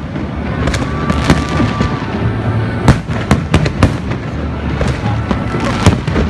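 Fireworks going off: a string of sharp bangs at irregular spacing, several close together in the middle, over a steady rumble, with a thin whistle about a second in.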